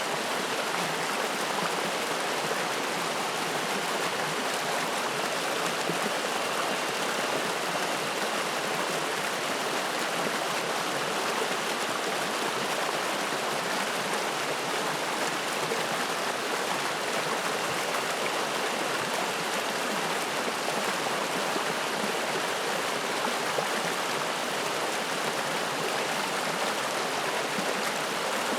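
Spring-fed mountain stream rushing and splashing steadily over rocks.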